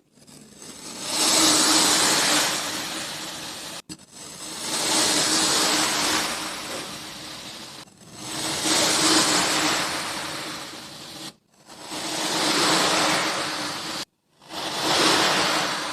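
Kinetic sand being cut and crushed with a crunchy, crackling hiss, in five passes that each swell up over about a second and fade before breaking off abruptly.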